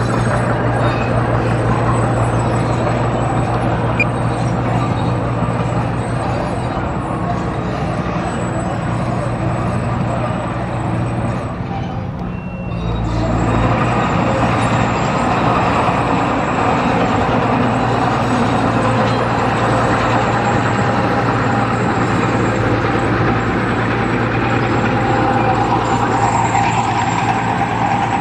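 Heavy earthmoving machine's diesel engine running steadily under load, with a brief drop and change in the engine sound about twelve seconds in.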